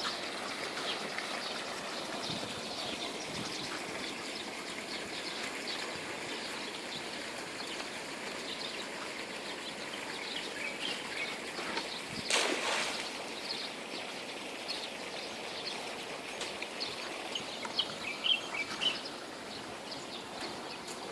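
Outdoor ambience: small birds chirping repeatedly over a steady background hiss. One brief, louder rushing sound comes about twelve seconds in.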